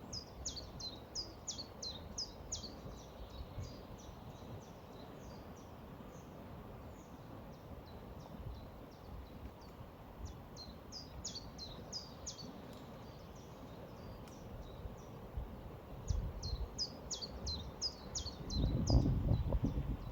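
A songbird singing three bouts of quick, downward-slurred chirps, over a steady low rush of flowing river water. Near the end a louder low rumbling comes in.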